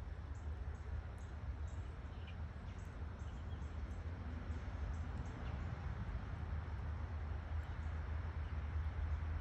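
Strong wind buffeting the microphone: a steady low rumble with rushing noise, and faint small ticks over it.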